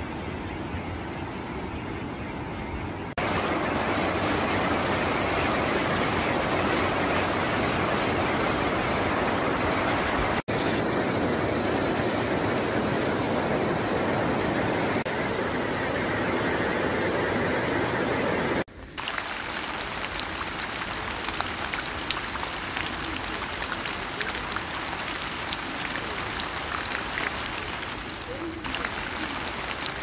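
A mountain stream full of rainwater rushing over granite boulders, louder after a cut about three seconds in. After a cut a little past the middle it gives way to steady rain, with many sharp drop taps.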